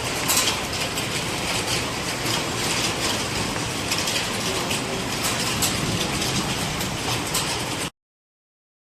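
Hail falling hard: a dense, steady hiss of hailstones with many sharp clicks of individual stones striking, cutting off abruptly near the end.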